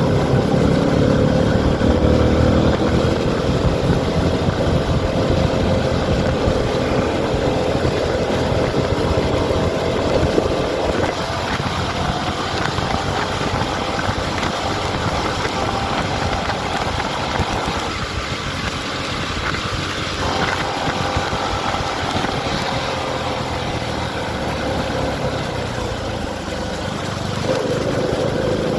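Motorcycle engine of a CFMoto 300SR running while the bike is ridden, its pitch rising and falling, over a steady rush of road noise. The engine tone fades somewhat in the middle and comes back strongly near the end.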